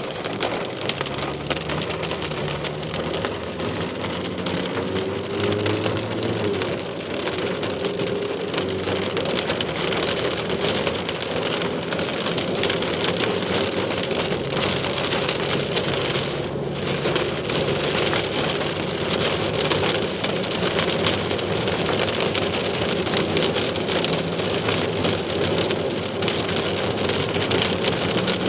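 Steady heavy rain pouring down, with a low, steady hum underneath.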